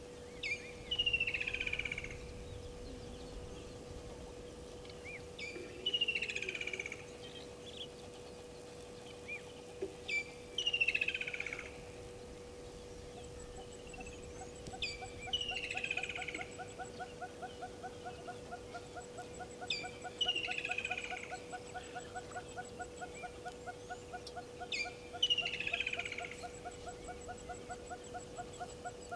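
A wild bird calling over and over, each call a short lead-in note and then a downward-sliding phrase, about every five seconds. About halfway in, a fast even pulsing call, four or five pulses a second, joins it. A faint steady hum lies under both.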